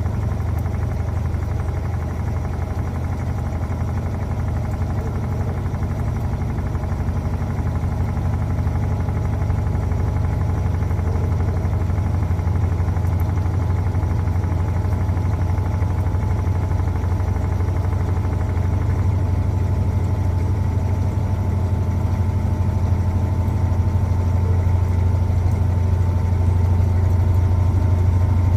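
Electrolux LTA15 washing machine running with a steady low hum and a faint whine that climbs slightly in pitch and grows louder toward the end.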